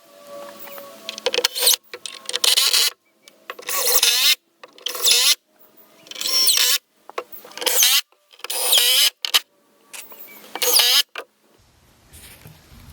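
Handheld power tool run in short bursts, about nine of them, each under a second, with its motor pitch wavering in each burst. The bursts stop about eleven seconds in.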